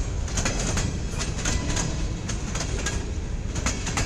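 Freight cars of a CSX local train rolling past: a steady low rumble with irregular sharp clicks of the wheels over the rail joints.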